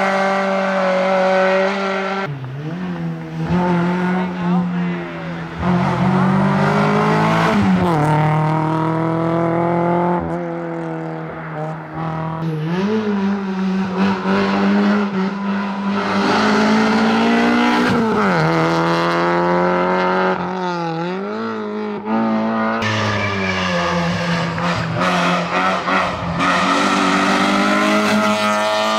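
Rally car engine held at high revs, with the note dropping sharply and climbing back several times as the driver lifts and changes gear.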